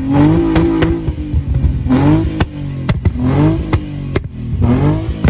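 Car engine revved repeatedly through a loud exhaust: about four short revs, each climbing and dropping back, roughly every second and a half, with sharp cracks between them.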